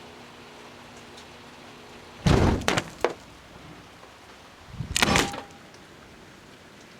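Microwave humming while an aerosol can of blue hair dye burns inside, then a loud bang about two seconds in as the can bursts and blows the microwave door open, cutting off the hum. A few smaller knocks follow, then a second loud crash near the five-second mark.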